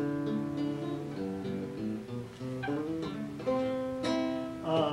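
Acoustic guitar strummed, its chords ringing and changing every second or so, with a fresh strum near the end.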